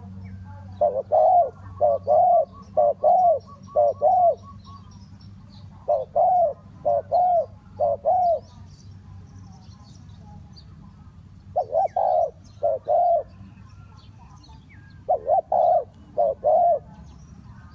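Spotted dove cooing: four phrases of repeated arched coo notes, each phrase four or five notes long, with pauses of a few seconds between them.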